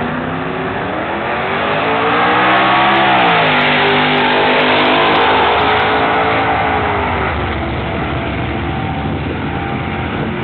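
Buick GS Stage 1's 455 V8 at full throttle on a drag-strip launch: the revs climb, drop sharply at a gear shift about three seconds in, then climb again, and the engine fades as the car pulls away down the track.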